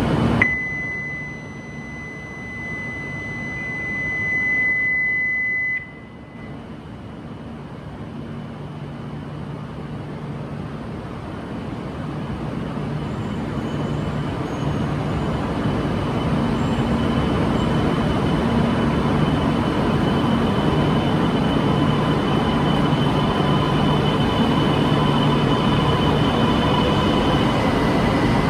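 A steady high electronic tone lasts about five seconds. Then a Tohoku Shinkansen train's running noise builds gradually, with a low steady hum and a faint high whine, growing louder to the end.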